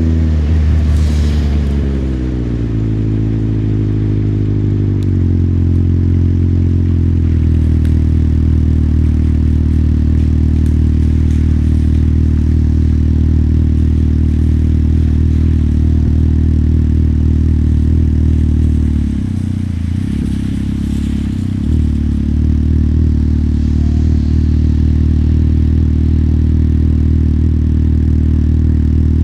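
Motorcycle engine slowing down, its note falling in steps over the first several seconds, then idling steadily. The idle dips and wavers briefly about twenty seconds in.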